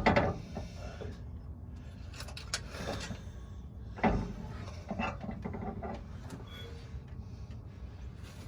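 Handling noise from parts and containers being moved: a few scattered knocks and rattles, the loudest about four seconds in, over a low steady background.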